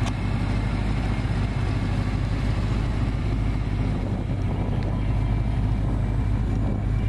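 Ford Mustang's engine idling steadily, an even low hum that holds the same level throughout.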